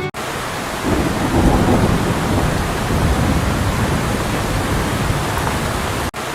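Heavy rain with rumbling thunder: a steady rush of noise with a deep rumble beneath it. It starts abruptly and breaks off for an instant about six seconds in.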